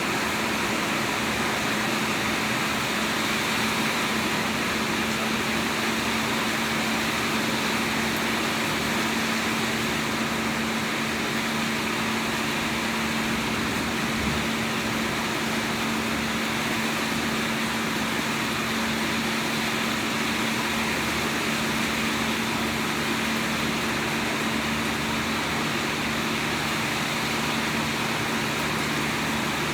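Steady rain, an even hiss with no breaks, with a constant low hum running underneath it.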